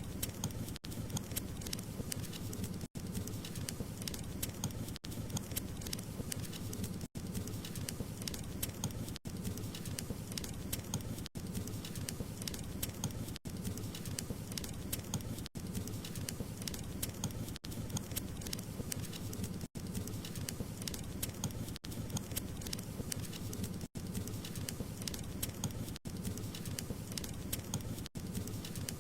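Wood fire crackling, with a dense run of small pops and hiss over a low rumble of burning. Very short dropouts come about every two seconds.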